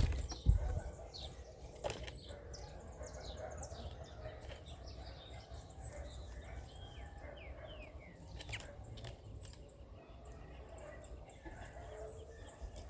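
Several small birds chirping and calling over one another as they feed, with a loud thump about half a second in and a few sharp clicks.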